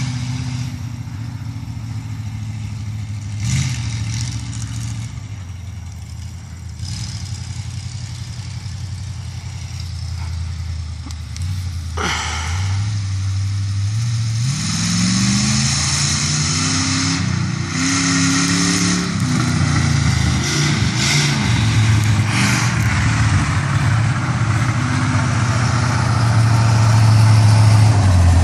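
S10 mega truck's engine running steadily, then, after a short knock about halfway through, revving up with a rising pitch as the truck accelerates. It settles into a steady, louder drone near the end.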